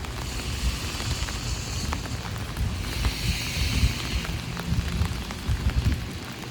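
Heavy rain pattering steadily on an umbrella overhead, with irregular low rumbling from wind gusts on the microphone.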